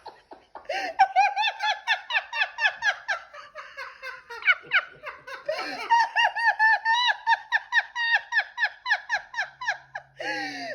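Pet bird calling in a fast, even run of short rising-and-falling notes, about five or six a second, that stops near the end, followed by one falling note. The bird is worked up and excited.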